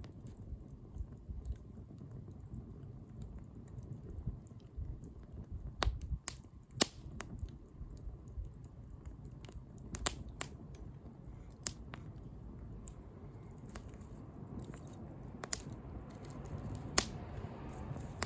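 Wood bonfire burning: a steady low rumble of flames with a handful of sharp pops and crackles scattered through it.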